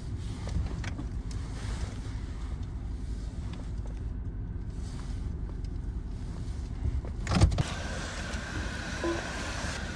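Steady low rumble of a car heard from inside as it moves slowly, with one loud knock about seven seconds in, followed by a faint steady high tone.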